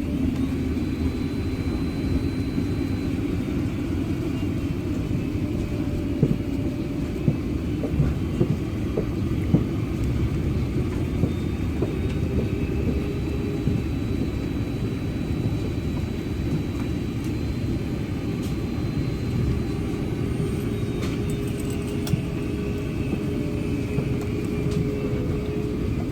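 Airbus A380-800 cabin noise: a steady low rumble of the engines and airframe with a few faint whining tones, and several light knocks about a quarter of the way in.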